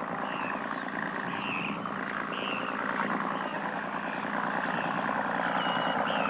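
Fishing boat engine running steadily, growing slightly louder, with short high bird chirps several times over it.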